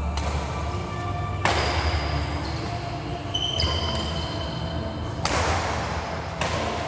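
Four sharp hits of badminton rackets on a shuttlecock during a rally, each ringing out in the hall's echo, over a steady low hum.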